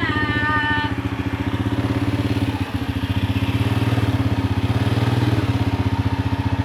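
A small engine running steadily at idle, with a fast, even beat. A voice sounds briefly in the first second.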